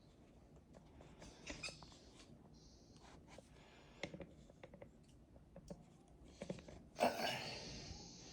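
Scattered small clicks and knocks from statue parts and packaging being handled, with a louder, noisy scrape about seven seconds in that fades over about a second.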